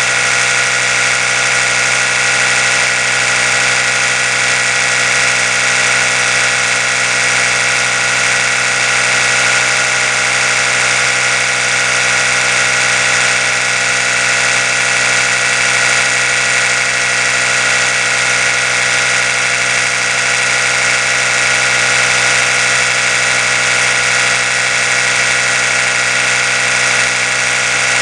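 Oral-B electric toothbrush running continuously, a steady, even buzz that does not change.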